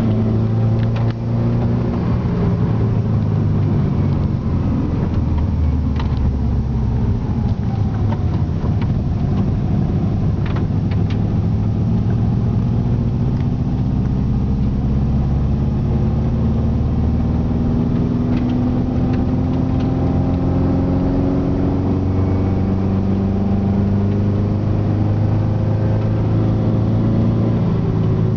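Subaru EJ20G turbocharged flat-four engine pulling under hard throttle, heard from inside the car. Its note climbs slowly over many seconds and drops once partway through. The engine has a holed piston, leaving a cylinder with no compression, and a severe exhaust leak, so it makes little power.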